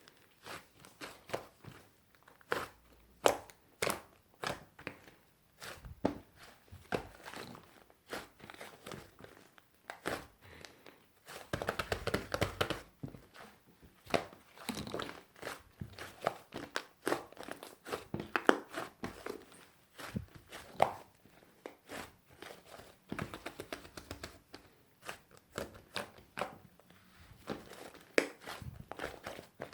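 Fluffy clay slime being pressed and poked by hand, giving irregular crackling clicks and soft pops, with a denser run of crackling about twelve seconds in.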